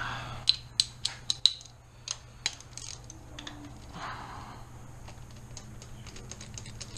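Hand tools clicking and clinking on metal: a handful of sharp ringing clicks in the first second and a half, then a run of quick light ticks near the end, like a ratchet wrench turning a bolt.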